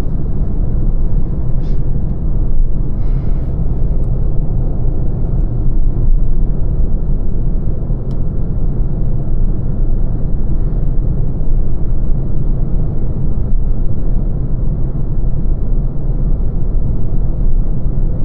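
Lancia Ypsilon on the move: a steady low rumble of road and tyre noise, with a few faint ticks.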